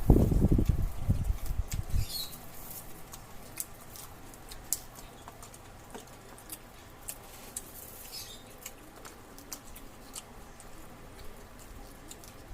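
Close-up eating sounds during a meal. About the first two seconds hold loud, low bumping noises near the microphone, then come quieter chewing and mouth sounds with many scattered small clicks.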